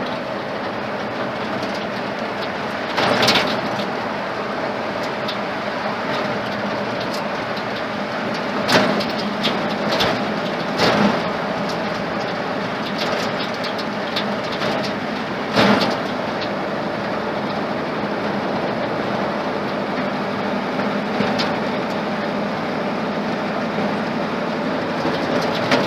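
Ford flathead engine, freshly built and still running in, pulling an old truck along the road, heard from inside the cab as a steady drone with road noise. A few knocks and rattles of the body cut through, the loudest about three seconds in and near the middle.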